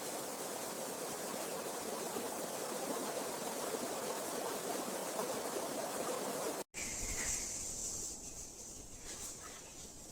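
Steady rushing water. It cuts off abruptly about two-thirds of the way through and gives way to a quieter ambience with a faint, steady high-pitched hiss.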